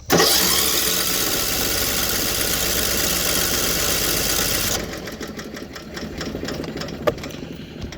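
Electric starter cranking a Troy-Bilt riding mower engine for about five seconds without it firing, then a quieter run of clicking as the engine keeps spinning freely after the key is let go. This is the sign of an engine with little or no compression, which the owner blames on it having been run out of oil.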